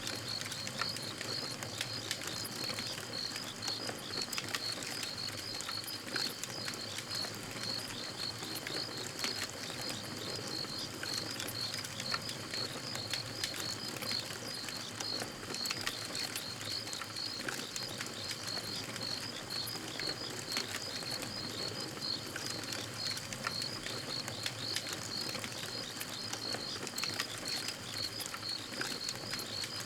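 Campfire crackling, with scattered sharp pops and snaps, over the steady, evenly pulsed high chirping of crickets.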